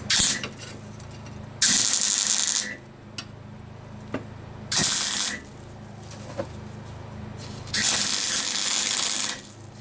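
MIG welder laying three short tack welds, each a burst of crackling arc hiss: about a second, then half a second, then a second and a half. The shielding gas was turned off for these welds.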